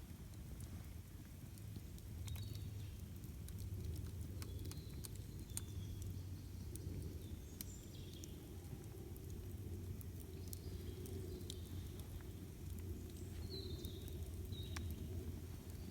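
Wood campfire crackling, with irregular sharp pops over a low steady rumble, and short bird chirps now and then.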